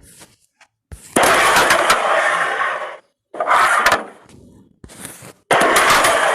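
Carrom striker and coins sliding across the board with a long scraping hiss, three times, with sharp clicks as the striker hits coins.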